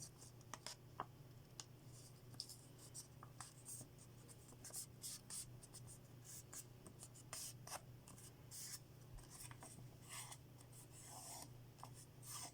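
Faint rustling of a small square of origami paper being folded, with short, scratchy strokes as fingers crease the folds flat, over a steady low hum.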